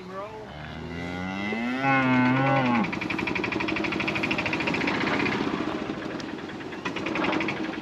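Cattle mooing: one long, loud moo from about half a second in to nearly three seconds, rising and then falling in pitch, followed by rougher, pulsing lowing from the herd.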